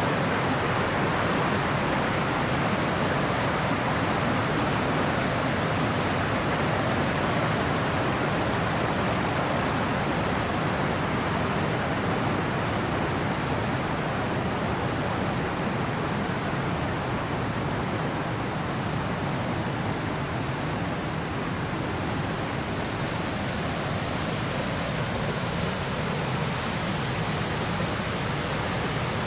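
Ryumon Falls, a broad waterfall, pouring with a steady, even rush of falling water.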